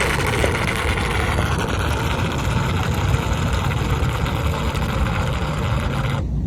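Small DC-motor foam toy boat running, its motor and propeller churning water in a steady, loud rush that cuts off suddenly near the end.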